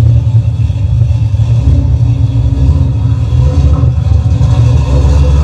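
Very loud Mazda RX-7 engine running steadily at idle, with a strong, low pulsing exhaust note.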